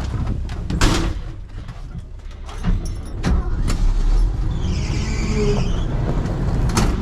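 Loaded dump truck's engine running under load, with a few sharp clunks and a short hiss about five seconds in; the engine note rises in the second half.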